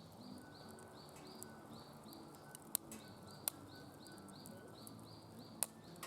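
Wood fire crackling in a DOD Mecha Moe Fire fire pit, with a few sharp pops, the loudest a little before halfway and near the end. A high chirp repeats about twice a second behind it.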